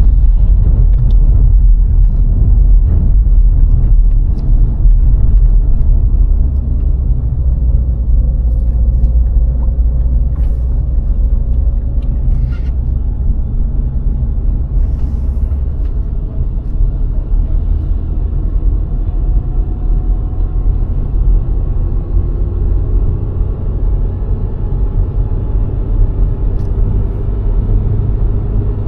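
VW Golf IV 1.6 driving on the road: a steady low rumble of tyres and engine, with the engine's tone rising slowly in pitch through the second half. A few faint knocks come about ten to thirteen seconds in.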